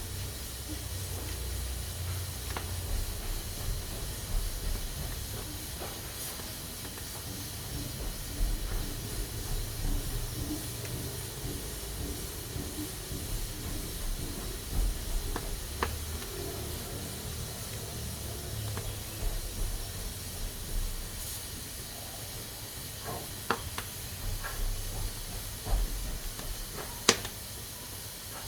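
Pressure cooker hissing steadily as steam escapes through its valve, with a low rumble underneath and a few sharp clicks scattered through, the loudest near the end.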